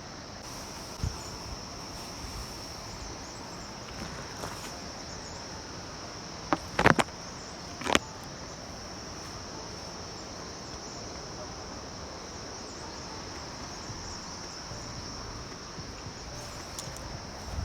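Steady high-pitched insect chorus, unbroken throughout. A few sharp knocks come about seven and eight seconds in.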